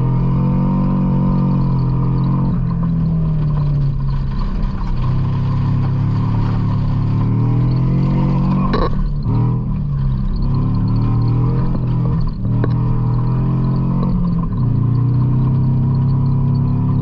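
A 1976 GM pickup truck's engine revving hard under load, its pitch climbing and then dropping sharply about five times as the driver lifts off or shifts. Two brief knocks come through about halfway through and again a few seconds later.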